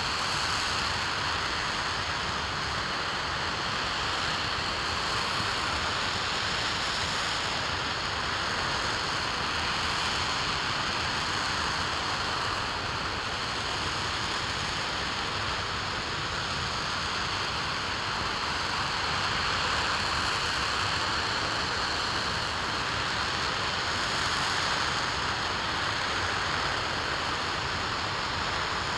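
RS-25 liquid-hydrogen/liquid-oxygen rocket engine firing steadily on a test stand: a continuous, even rushing noise with no change in power.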